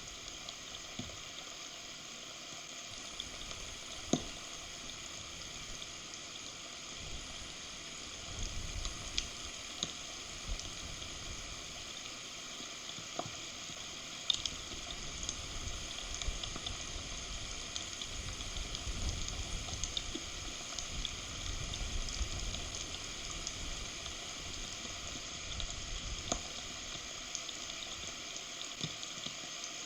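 Heavy thunderstorm rain falling on a forest nest and the camera, a steady hiss dotted with sharp ticks of individual drops. A low rumble swells and fades through the middle.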